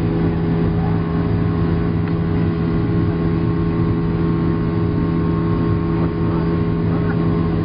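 Boeing 737-700's CFM56 jet engines droning steadily, heard inside the passenger cabin as a constant low hum over a broad rumble.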